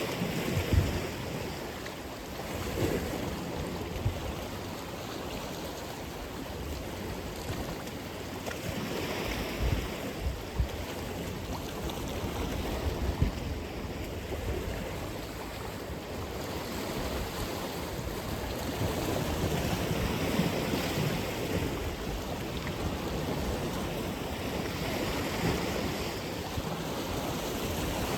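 Atlantic Ocean waves breaking and washing on the shore, a continuous surf wash that swells and ebbs every few seconds, with low rumble from wind on the microphone.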